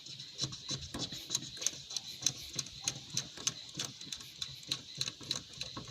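Hand primer pump on a Toyota 1KD diesel's fuel system being pumped rapidly by hand, a quick series of clicking, squishing strokes about three a second. The pump is still loose, pushing air, while priming a fuel system that ran dry of diesel.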